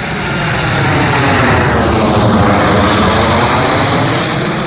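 An arriving airliner passing low overhead on final approach: loud engine rumble and rush that builds, peaks, and begins to fade, with a high whine dropping in pitch about two seconds in as it goes by.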